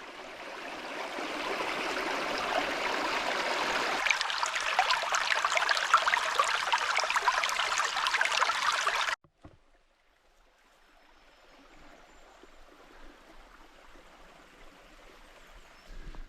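River water rushing and splashing over rocks, heard close up, a dense hiss full of small splashes. It cuts off abruptly about nine seconds in, leaving a much fainter steady hiss.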